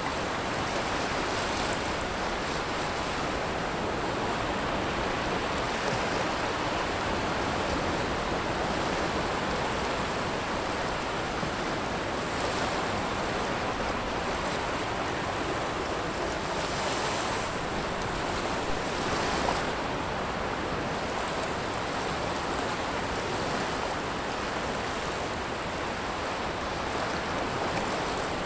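Ocean surf washing over a pebble beach: a continuous wash of water noise with a high hiss that swells briefly several times as waves run up and draw back.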